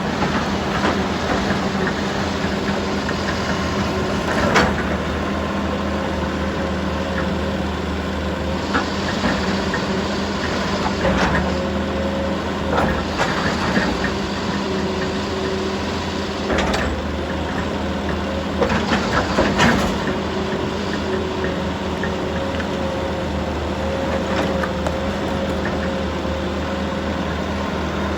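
A heavy machine's diesel engine running steadily, with a handful of sharp knocks and clanks spaced several seconds apart.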